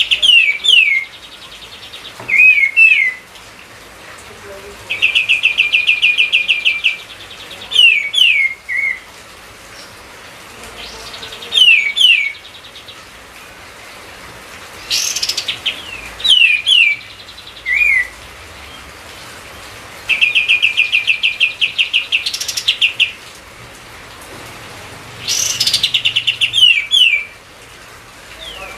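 Kapas tembak songbird singing loudly in repeated bouts: fast rattling trills lasting a second or two, and quick downward-slurred whistles, with short pauses between bouts.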